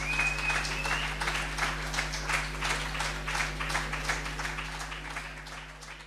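Audience applauding, the clapping dying away toward the end, over a steady low hum. A brief high whistle sounds in the first second.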